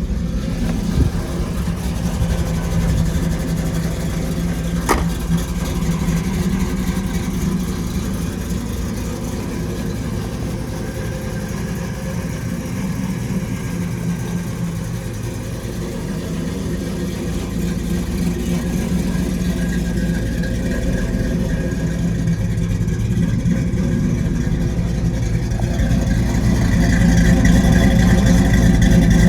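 Engine of a modified 1977 Chevrolet LUV with Holley Sniper fuel injection, idling steadily shortly after a cold start. There is a single sharp click about five seconds in, and the exhaust note grows louder near the end.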